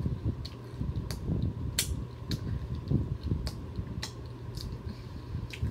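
Close-up chewing of a mouthful of M&M-topped chocolate donut, with irregular wet mouth clicks and smacks.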